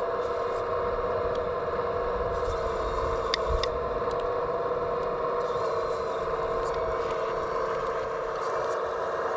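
Steady electric whine of a radio-controlled scale construction machine's hydraulic pump running, with a couple of sharp clicks about three and a half seconds in.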